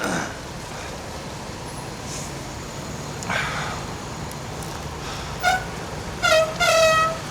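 Road traffic and wind noise while cycling, with a vehicle horn honking three times in the last two seconds; the third honk is the longest.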